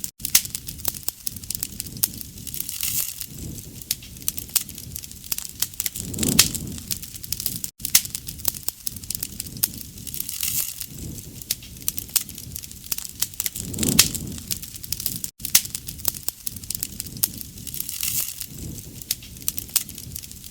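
Wood bonfire crackling and popping with a low rumble of flames. The recording is a short loop: it cuts out for an instant and starts over about every seven and a half seconds.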